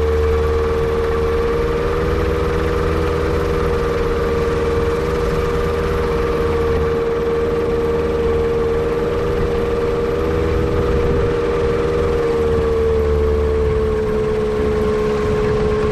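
Kitfox airplane's Yamaha Apex four-cylinder four-stroke engine running at a steady speed, with a strong even hum and an uneven low rumble beneath, the pitch sagging slightly a little before the end. The engine has a misfire, which the owner suspects comes from a vacuum leak.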